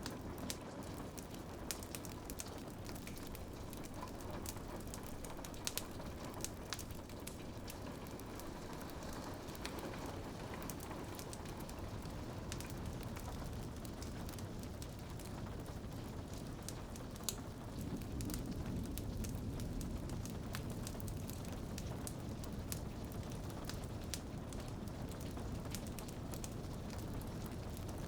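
Wood fire crackling in a fireplace, with scattered sharp pops and snaps over a steady patter of rain on a window. The low rain noise grows a little louder about two thirds of the way in.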